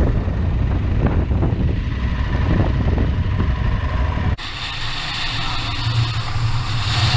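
Adventure motorcycle engine running while riding off-road, with heavy wind rumble on the microphone. About four seconds in, the sound cuts off abruptly and switches to a steadier engine hum under a loud hiss of wind.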